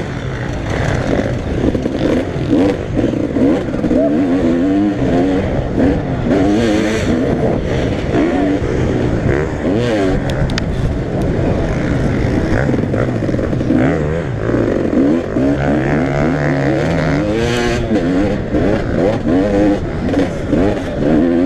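Several motocross bikes racing at once, their engines revving up and falling back over and over as they accelerate and shift gears.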